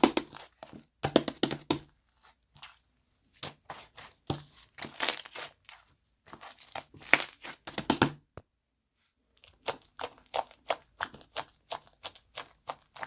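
Slime being squeezed and pressed by hand, giving bursts of close crackling and popping clicks, with a pause of about a second two-thirds of the way through.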